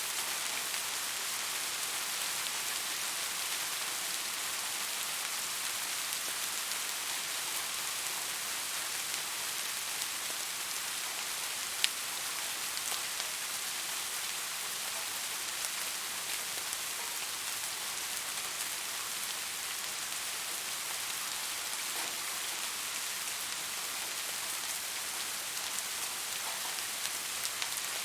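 Steady rain falling on a surface: an even hiss of many small drops, with one sharper, louder drop hit about twelve seconds in.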